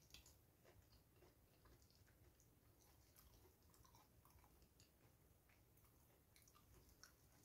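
Faint chewing, with soft scattered clicks and squishes of fingers mixing rice in a glass bowl; overall very quiet.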